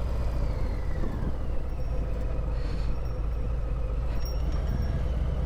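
Steady low rumble of motor vehicle engines running, with a faint tone slowly falling in pitch over the first two seconds.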